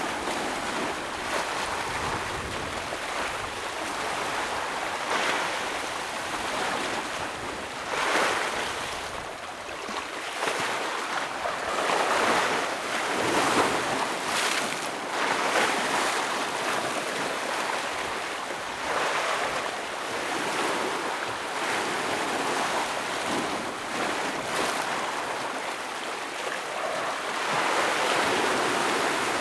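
Ocean waves breaking and washing against shoreline rocks, a continuous surf wash that swells every few seconds, with brief sharper splashes.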